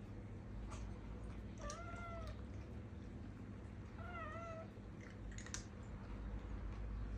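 A domestic cat meowing twice: one arched meow about two seconds in, then a shorter, wavering meow about two seconds later. A couple of light clicks follow near the end.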